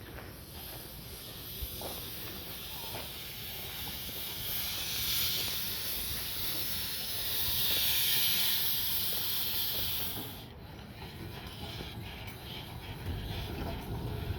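Steam hissing from a 1909 Buffaud-Robatel 031T steam tank locomotive, swelling over several seconds and then cutting off suddenly about ten seconds in.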